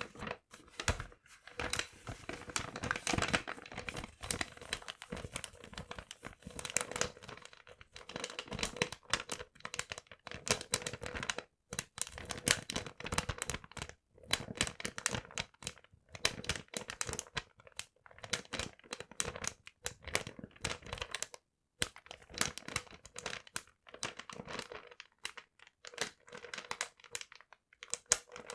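Paper being crumpled and crinkled by hand, with dense, irregular crackling in bursts separated by brief pauses.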